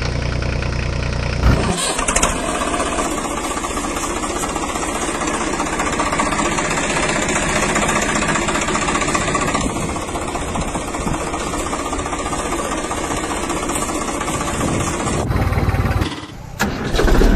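Engine running steadily, changing abruptly about a second and a half in and again near the end.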